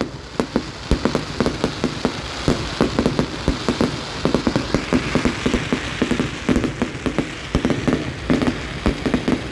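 Fireworks crackling overhead: a dense, rapid patter of small sharp pops that sounds like heavy rain, with a hiss swelling about halfway through.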